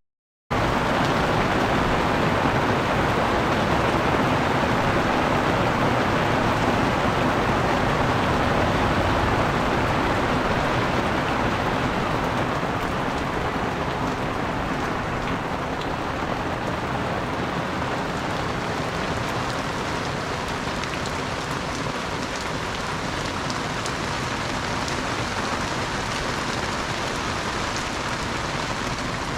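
Heavy rain falling in a steady hiss, cutting in abruptly after a split second of silence.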